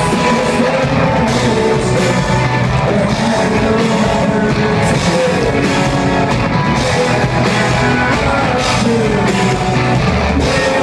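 Live band playing loud, steady rock music led by guitar.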